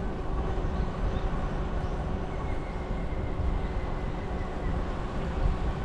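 Steady low rumble of wind buffeting the microphone, mixed with the running noise of a bicycle being ridden.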